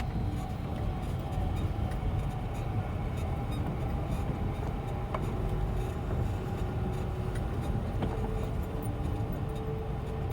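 Pickup truck's engine running steadily as it drives slowly in low gear, a continuous low rumble with occasional small rattles and clicks.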